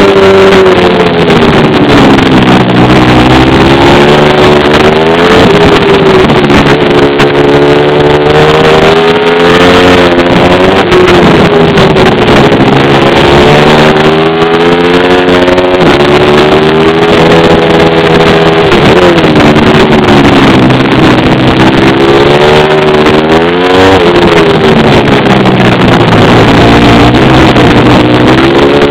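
Pit bike engine ridden hard and loud, its pitch climbing under throttle and dropping off again every few seconds as the bike accelerates and slows.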